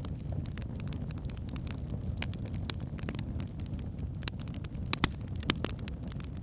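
Log fire burning in a fireplace: a steady low rumble of flame with irregular sharp crackles and pops, two of them louder about five and five and a half seconds in.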